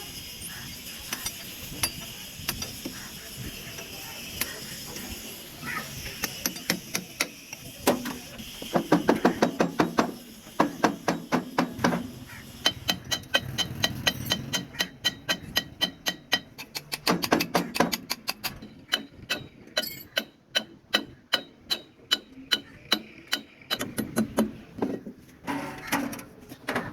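Hand tools striking metal: a long series of sharp knocks, sparse at first and then several a second from about six seconds in, some of them ringing.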